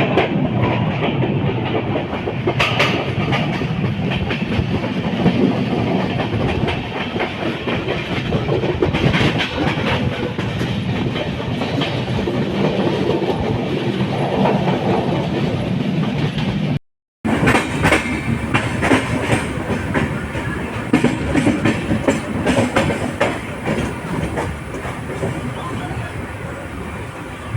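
Express train's LHB passenger coaches running along the track, a steady rumble with wheels clattering over rail joints. The sound cuts out completely for a moment about two-thirds of the way through, then the running resumes.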